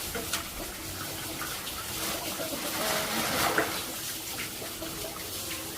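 Water splashing and trickling in short, irregular bursts as live fish from a harvested pond are handled in a container of water.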